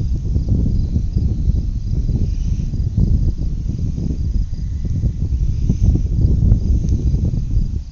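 Wind buffeting the microphone in an irregular low rumble, with a faint, evenly pulsed high chirping of insects behind it.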